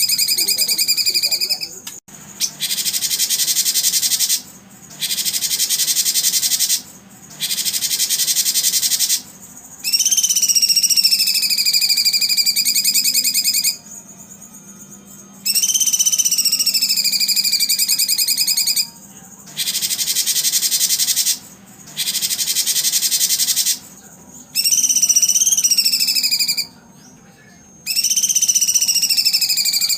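Songbird calls in a repeating pattern: long whistled notes that dip slightly in pitch and hold for three to four seconds, alternating with runs of harsh buzzy trills about two seconds each, with short pauses between.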